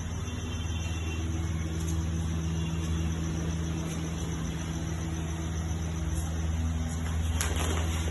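Servo-driven CNC router with a 6 kW air-cooled spindle running, a steady low machine hum with fainter higher tones coming and going. A single sharp click about seven seconds in.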